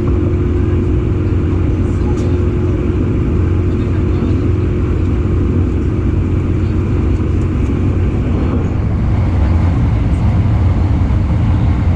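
Electric commuter train running between stations, heard from inside the carriage: a steady rumble of wheels on the rails with a held tone that weakens about nine seconds in.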